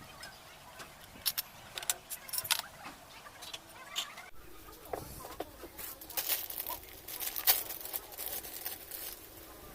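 Irregular metallic clinks and taps of parts and tools being handled during the reassembly of a washing machine's mechanism, with a break in the background hum about four seconds in.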